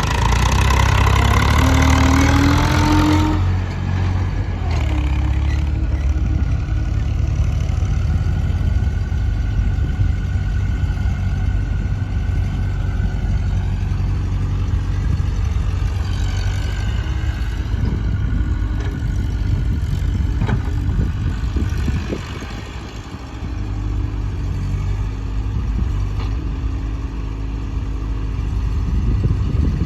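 Diesel engines of tractors and a JCB loader running. In the first few seconds one engine revs up with a rising pitch; after an abrupt change it settles into steady low running, with occasional knocks.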